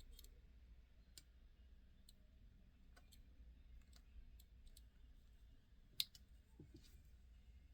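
Near silence with scattered faint clicks from a die-cast model car being handled, one sharper click about six seconds in.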